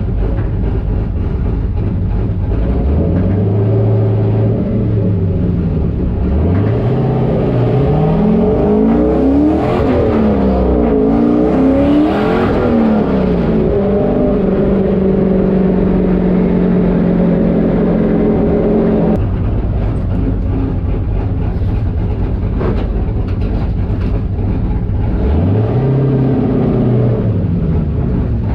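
Turbocharged LS V8 of a street-legal stock car under way, revving up in rising sweeps as it pulls through the gears. It then holds a steady pitch at cruise for several seconds before dropping off suddenly, and revs up again near the end.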